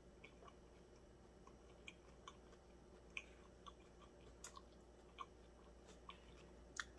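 Faint chewing of a mouthful of steak and cheese sub, heard as soft, irregular wet clicks of the mouth.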